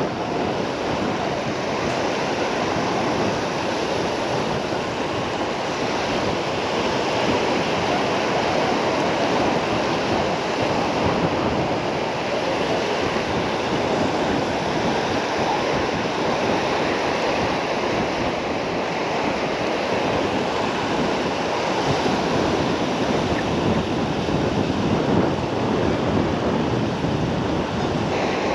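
Sea waves washing steadily onto a beach, with wind buffeting the microphone.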